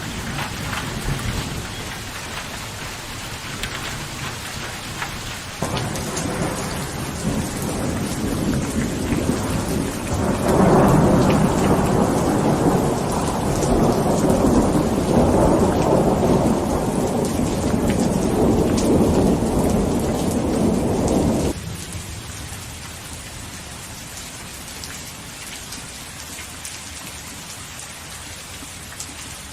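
Steady rainfall with a long roll of thunder that builds about six seconds in, is loudest for roughly ten seconds in the middle, then cuts off suddenly, leaving the rain alone.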